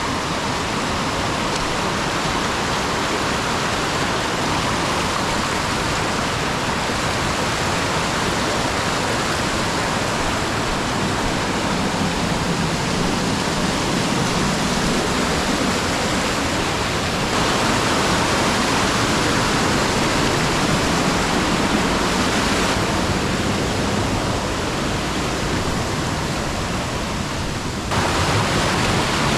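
Steady rushing noise of water, with a few abrupt shifts in level and tone.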